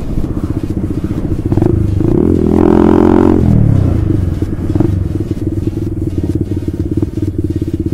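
Honda CBR150R single-cylinder engine through an aftermarket Ronin exhaust, running steadily, with one rev of the throttle about two seconds in that rises and falls back within a second and a half.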